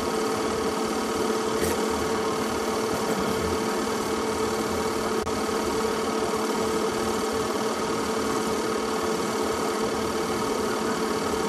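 Steady mechanical running hum with one strong constant tone, unchanging throughout.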